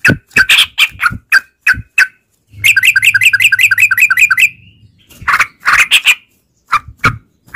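Yellow-vented bulbul calling: loud, short chattering notes, broken about a third of the way in by a rapid, even trill of about a dozen notes lasting two seconds, then more single notes.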